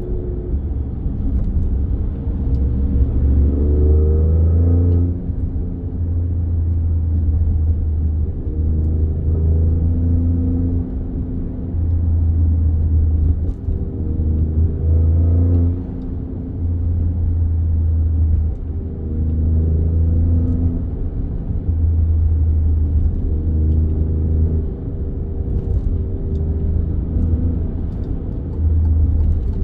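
Alfa Romeo Stelvio Quadrifoglio's twin-turbo V6 running under way, a deep steady rumble. The engine note climbs and drops again several times as it pulls and shifts.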